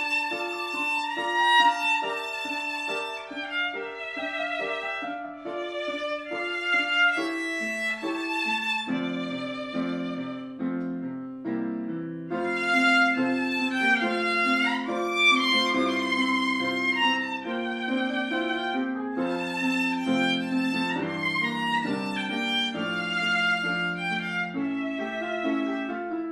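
Instrumental music led by a violin melody. For the first nine seconds it sits over short repeated plucked or detached notes, then over held lower chords.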